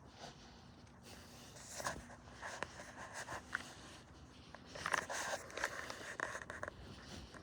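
Irregular rustling and scraping with a few light clicks from a person walking: footsteps and clothing rustle, busiest about two seconds in and again near the five-second mark.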